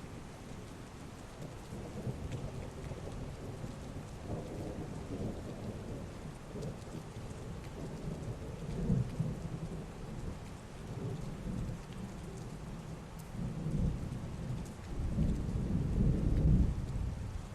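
Heavy rain falling steadily, with rolling thunder rumbling in low swells that build to the loudest roll near the end.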